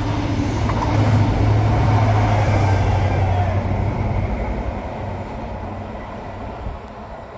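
Network Rail New Measurement Train, a high-speed train with Class 43 diesel power cars, passing through on the rails: a low drone with wheel and rail noise, loudest a second or two in, then fading as the rear power car pulls away.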